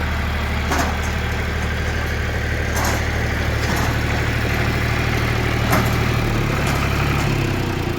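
A heavy machine's engine running steadily, with a few short knocks or clanks. The engine note shifts briefly about six seconds in.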